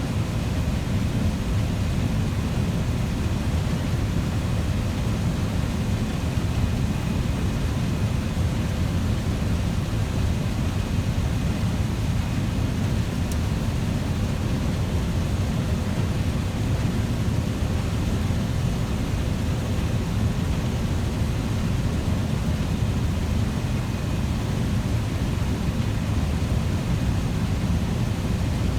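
Farm machinery engine running steadily: a constant low drone with a faint steady whine above it.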